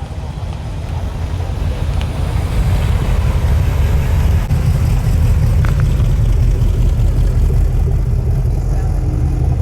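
A car's engine and exhaust rumbling as it drives in, growing louder over the first few seconds, then holding steady.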